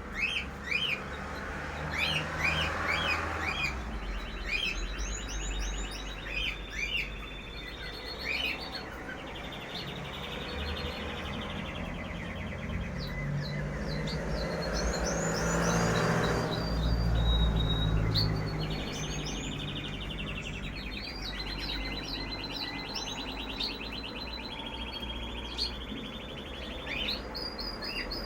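Many small birds chirping and trilling together, with quick rising chirps and fast buzzy trills, and a low rumble that swells about halfway through.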